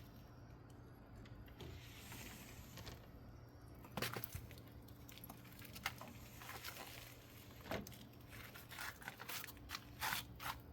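Firewood fire crackling, with scattered sharp pops every second or two from a few seconds in.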